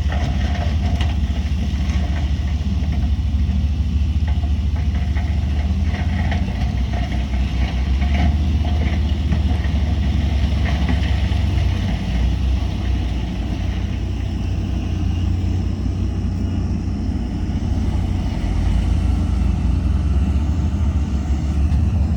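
Heavy earthmoving machine's diesel engine running steadily with a deep, continuous rumble, with light clatter now and then.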